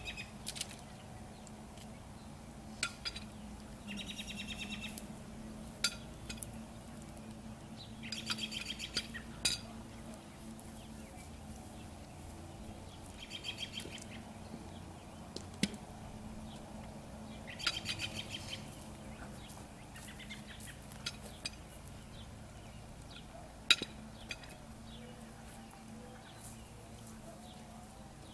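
A songbird sings short trilled phrases every few seconds. Now and then comes a single sharp knock of split firewood being set on a woodpile, the loudest near the end.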